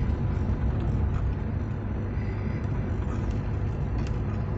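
Car engine and road noise heard from inside the cabin while driving slowly, a steady low rumble; the engine is not yet warmed up.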